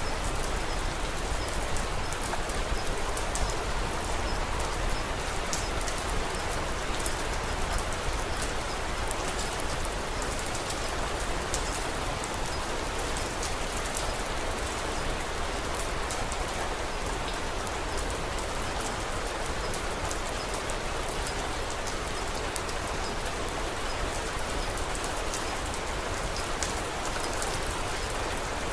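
Steady rain, with many small sharp clicks scattered through it.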